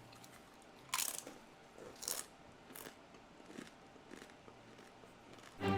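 Crisp crunches of people biting and chewing the One Chip, a thin, extremely spicy tortilla chip: about five separate short crunches roughly a second apart.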